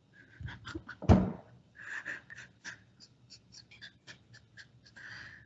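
Breathy, wheezing near-silent laughter in quick puffs, with one loud low thump about a second in.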